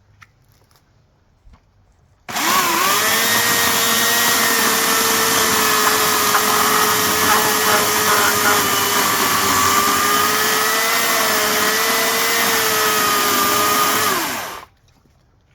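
Hawksmoor 2200W electric chainsaw starting abruptly about two seconds in and running steadily with a whine for about twelve seconds, then shutting off and winding down quickly near the end.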